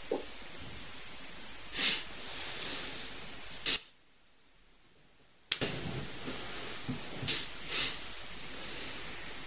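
Steady recording hiss with several short, sharp sniffs or breaths close to the microphone. About four seconds in, the sound drops out to near silence for roughly two seconds.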